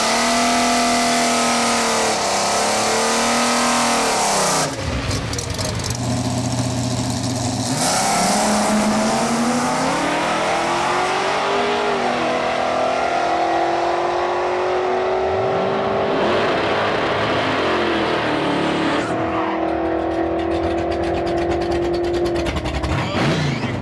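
A diesel Chevelle and a turbocharged Gremlin launching side by side down a drag strip, their engines revving with the pitch rising and dropping through the gears. The sound jumps abruptly about five, eight and nineteen seconds in.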